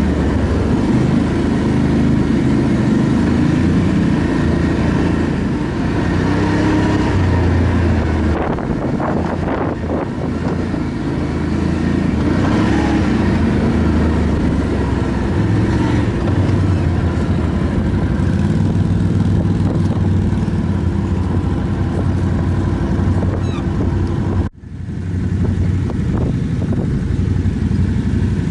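ATV engine running steadily while riding, its pitch shifting slightly with the throttle. The sound cuts out for a moment about three-quarters of the way through.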